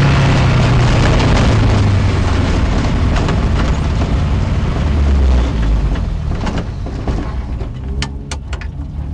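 Matra Djet's engine heard from inside the car, its revs falling as the car slows, over a broad rushing noise. After about five and a half seconds it turns lower and quieter, and a few sharp clicks come near the end.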